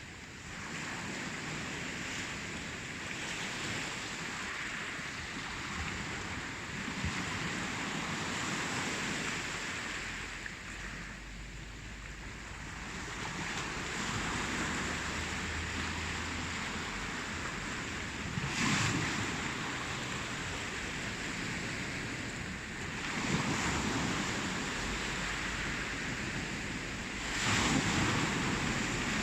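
Ocean surf: waves washing in and drawing back in a steady rush that swells and fades, with louder breaks about two thirds of the way through and again near the end.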